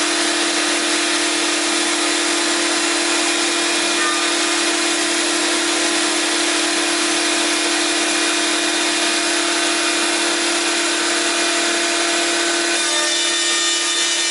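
Hobby gantry CNC router's spindle running steadily as its bit cuts a wooden sign: a constant whine over a loud hissing cutting noise.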